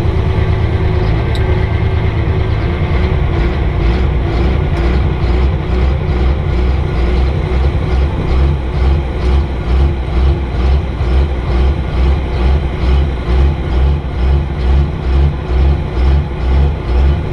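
Cummins turbo diesel engine of a Dodge pickup running hard in a truck pull. From about halfway through, its loudness pulses in a regular beat, roughly one and a half times a second.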